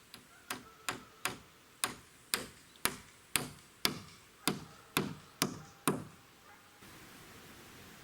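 A hand tool striking wood in a steady rhythm, about a dozen sharp knocks roughly two a second, each with a short ring. The strikes stop about six seconds in.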